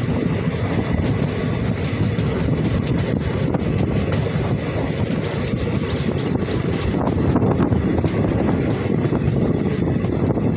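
Passenger train running at speed: a steady, loud rumble, with wind buffeting the microphone.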